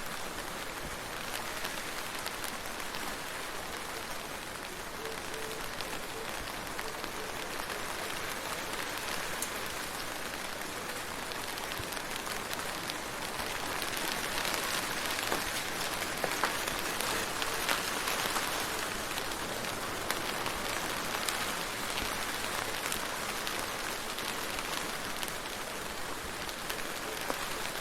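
Steady rain falling, with many individual drops ticking through the hiss. The rain swells a little heavier about halfway through for several seconds.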